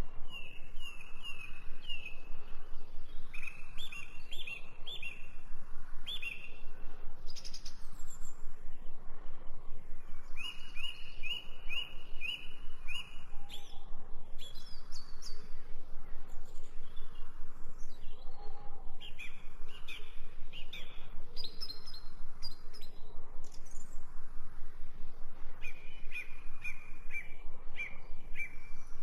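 Songbirds singing: repeated phrases of short, falling chirps, several notes to a phrase, with a steady low hum underneath.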